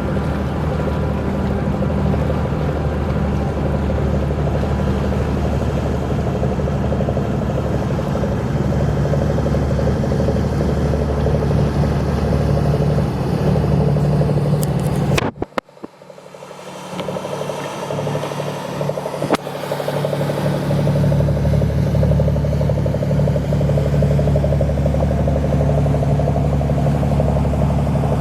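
An engine running steadily with a low drone. The sound cuts out suddenly just past halfway, with a click, then comes back.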